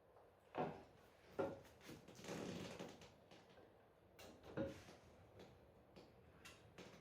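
Handling noise: three light knocks, two close together and one a few seconds later, with a short scraping rustle between them and a few faint ticks.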